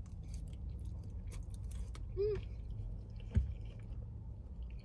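A person chewing a forkful of food, with small crisp clicks of the chewing through the first two seconds. A brief hummed 'mm' comes about two seconds in, and a soft thump about three and a half seconds in.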